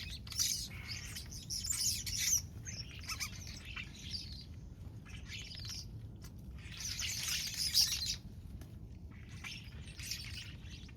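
A flock of small birds chirping, many high calls overlapping in bursts every second or two.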